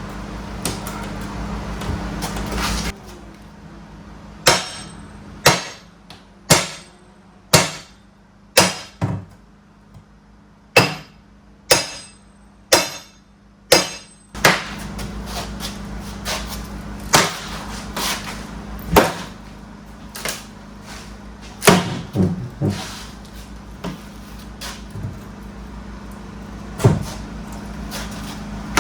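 Sharp hammer blows on wood and metal, working up a heavily nailed floor board. They come about one a second for roughly ten seconds, then more irregularly.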